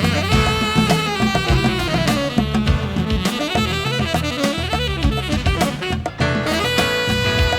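Instrumental band music: a saxophone plays the lead melody over a drum kit, holding a long note near the end.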